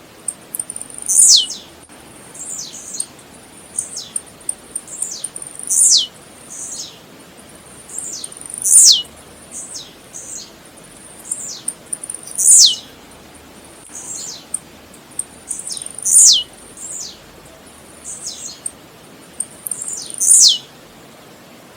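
Blue-black grassquit (tiziu) singing: a high note that falls steeply in pitch, given loudly six times, about every three to four seconds, with fainter falling notes and short high chips in between.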